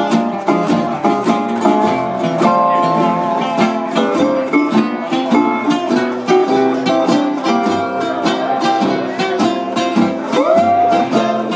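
Live country band playing an instrumental break: guitars strummed in a steady rhythm under a plucked-string lead line, with a note sliding up near the end.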